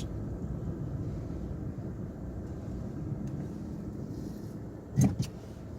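Car's engine and road noise rumbling steadily inside the cabin while driving, with one short, louder sound about five seconds in.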